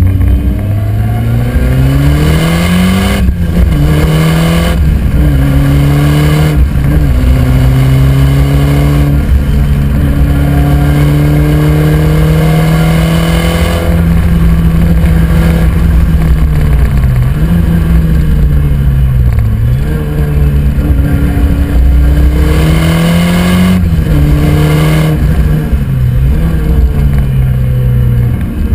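Ford Escort RS Cosworth's 2.0-litre turbocharged four-cylinder engine under hard acceleration. The revs climb and break off at gear changes with short sharp noises, then dip and rise again through the bends.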